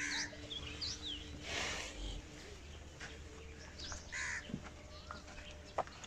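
Birds calling in the background: scattered short high chirps and two harsher calls, one at the start and one about four seconds in, over a faint steady hum.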